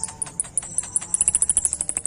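A kolibri ninja sunbird singing a rapid series of very high, sharp ticking notes that speed up into a fast trill about halfway through.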